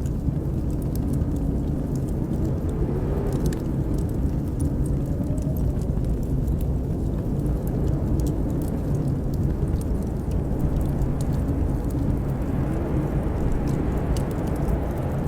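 Blizzard wind howling as a steady low rumble, its pitch slowly wavering, with scattered small crackles from a wood fire in a fireplace.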